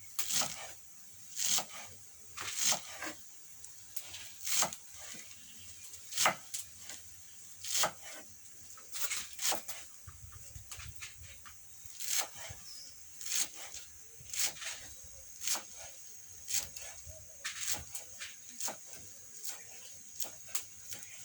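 A series of sharp knocks or taps, irregular, about one a second, with a faint steady high tone behind them, plainest near the end.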